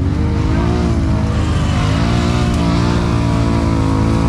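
ATV engine running in mud, its pitch wavering up and down as the throttle is worked.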